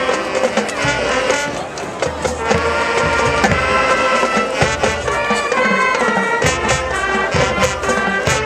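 Marching band playing, with brass carrying stacked chords over regular drum hits.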